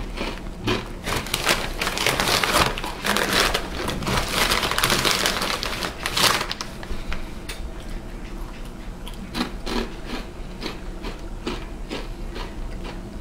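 A person crunching and chewing Takis rolled corn tortilla chips: dense crackly crunching for the first several seconds, easing into sparser, softer chewing clicks.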